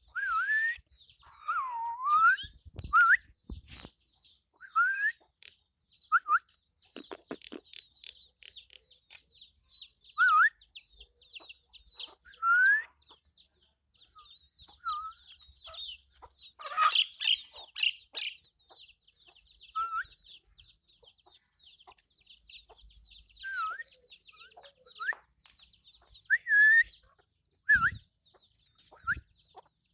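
Chicks peeping: short rising cheeps repeated every second or so, over a continuous high twittering of birds. A few dull knocks are heard now and then.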